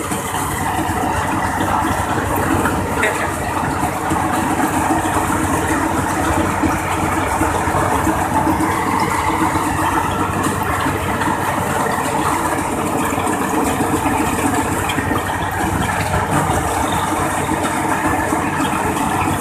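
Engine-driven machine running steadily and loudly without letting up, with a dense mechanical rattle over the engine note.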